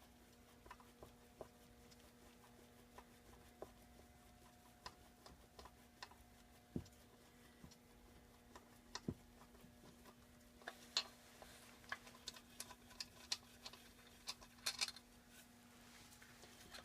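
Light metallic clicks and taps of hand tools and small engine parts being handled, scattered at first and busier in the second half, over a faint steady hum.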